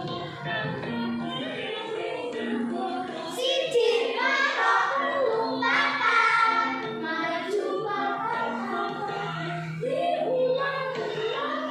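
A children's song plays continuously: music with singing, in which a child's voice carries the melody over held accompanying notes.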